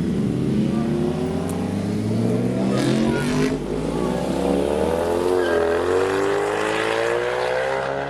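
Car engine accelerating, its pitch climbing steadily and slowly throughout.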